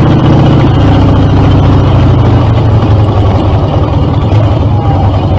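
Harley-Davidson Dyna V-twin running through Screamin' Eagle mufflers; the engine note drops a little under a second in and then runs lower.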